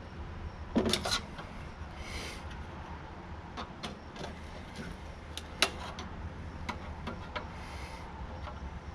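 Scattered metal clicks and knocks as clips and parts of a tankless water heater are worked loose by hand, with a clatter about a second in and a single sharp click past the middle; two short scrapes come between them.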